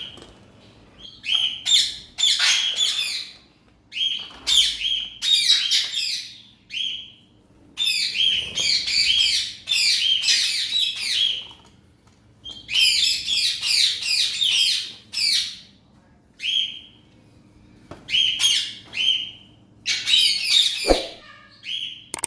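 Parrots in an aviary squawking and chattering in short, harsh bouts of calls, many ending in a brief rising note, with pauses between the bouts. A single sharp knock comes near the end.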